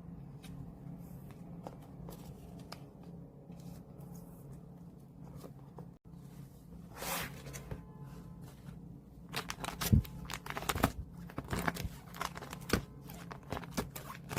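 Paper and plastic album packaging being handled: a short rustle about seven seconds in, then a run of crinkles, taps and clicks, loudest about ten seconds in, over a low steady room hum.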